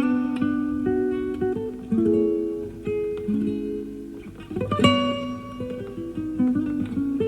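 Solo classical guitar playing a run of plucked notes, with a loud chord struck about five seconds in. This is a live recording taped off an FM broadcast onto cassette.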